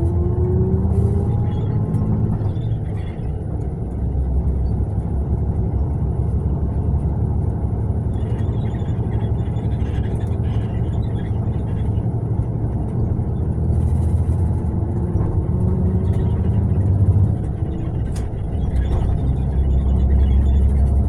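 Mercedes-Benz-chassis long-distance coach driving, with a steady low engine and road rumble. The engine note rises in pitch over the first second or so as it picks up speed.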